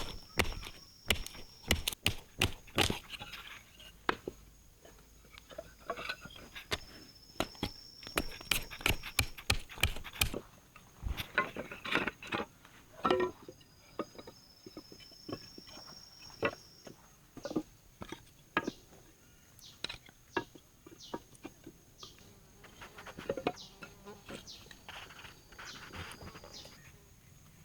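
Irregular sharp clicks and knocks, many in the first ten seconds and sparser after, over an insect's high, steady buzz that comes and goes in stretches of a few seconds.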